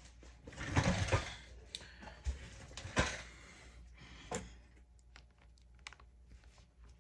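Light, irregular clicks and rustling of a small plastic action figure's parts being handled and fitted together. The clicks are busiest in the first few seconds and sparse toward the end.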